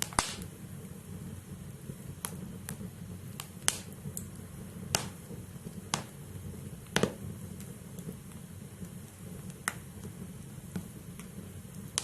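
Wood fire burning in a fireplace: irregular sharp crackles and pops from the burning logs, a dozen or so over the stretch, the loudest near the start, about a third of the way in and just past halfway, over the fire's steady low rumble.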